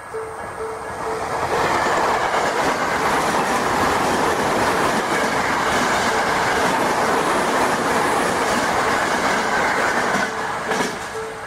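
Tokyo Metro 7000 series train passing a level crossing at high speed: a loud rush of wheels on rail with clickety-clack over the rail joints, building about a second in and dropping away near the end. The crossing's pulsing electronic warning bell rings at the start and is heard again as the train clears.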